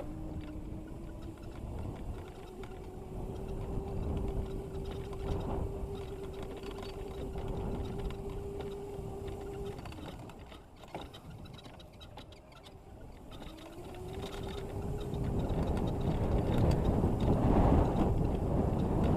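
Razor MX650 electric dirt bike under way: a steady electric motor whine that cuts off about ten seconds in. After a quieter few seconds it comes back rising in pitch as the bike speeds up, under a rough noise that grows louder near the end.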